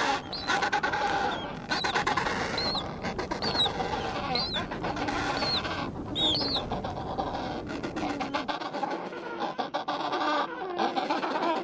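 A penguin colony calling: several birds giving overlapping pitched calls at once. Short high chirps repeat about once a second during the first half.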